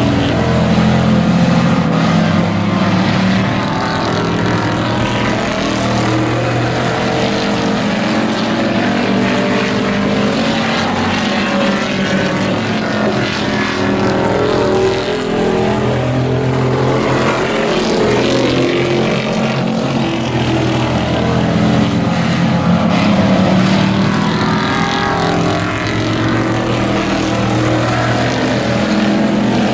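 Several race trucks' engines running together in a heat race, pitches rising and falling as the trucks accelerate and lift around the oval.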